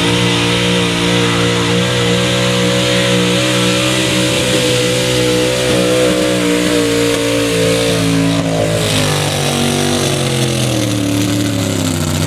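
Pulling truck's engine held at full throttle while it drags the weight sled down the track. The engine pitch steps down about two-thirds through, then falls away at the end as the run finishes.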